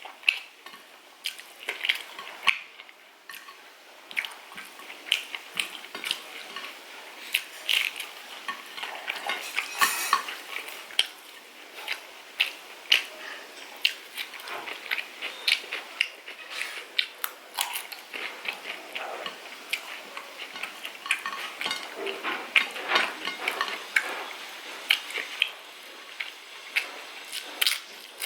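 Irregular light clinks, taps and scrapes against a plate as chicken curry is mixed and picked up for eating, many small sharp strikes close together.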